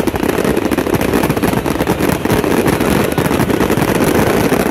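Barrage of aerial firework shells bursting in quick succession: a continuous, loud run of overlapping booms and crackling with no gaps.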